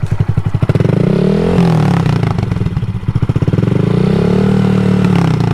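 Honda Grom's 125 cc single-cylinder engine, its muffler baffle removed, idling and then revved twice in neutral, the pitch climbing and falling back each time.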